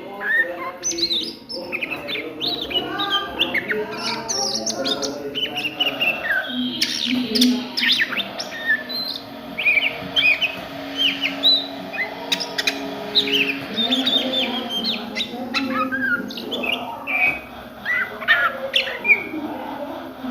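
Oriental magpie-robin (kacer) singing a rapid, varied string of short chirps and whistled notes.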